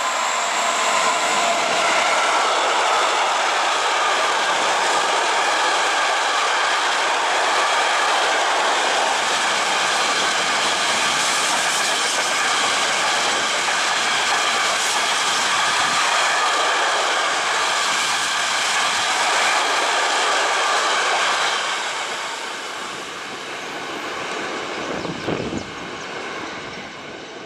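A long freight train of open wagons, hauled by an electric locomotive, passing close on curving track: a loud, steady rattle and rumble of wheels on rails with a whine of high steady tones over it. About 22 s in the last wagons go by and it fades to a quieter rattle.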